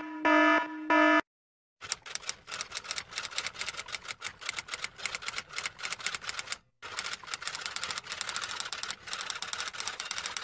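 A pulsed beeping tone stops about a second in, and after a short pause comes rapid typing: a dense run of key clicks, briefly broken about two-thirds of the way through.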